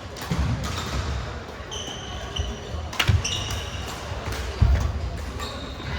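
Badminton rally on an indoor court: heavy thuds of footwork, court-shoe squeaks, and one sharp racket crack on the shuttlecock about three seconds in.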